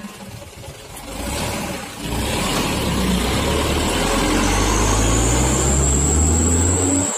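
Truck engine pulling away and accelerating, its note climbing steadily, with a thin high whine rising alongside it from about halfway. The sound cuts off abruptly at the end.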